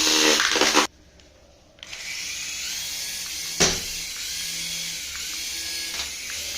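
A small electric toy motor whirring steadily, with a louder pitched burst at the start. The sound drops out for about a second, then the whir resumes with faint tones switching on and off. A single sharp click comes about halfway through.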